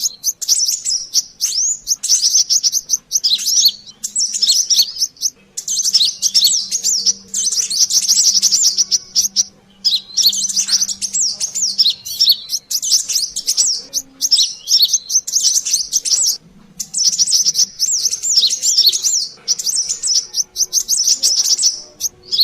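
Brown-throated sunbirds (kolibri kelapa) chattering noisily: dense, rapid high chirps in bursts a second or two long with brief gaps, a bird-lure call of an excited, calling group.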